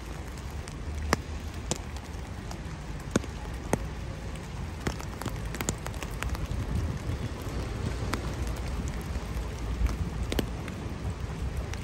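Sleet and rain falling: a steady patter with scattered, irregular sharp ticks of drops or ice pellets striking close by, over a low rumble.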